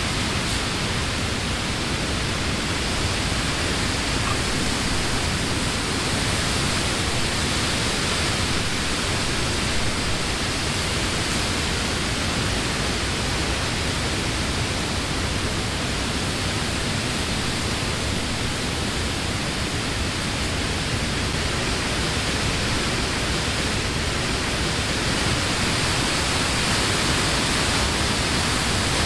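Summer wind blowing through leafy trees: a steady rush of leaves that swells slightly now and then.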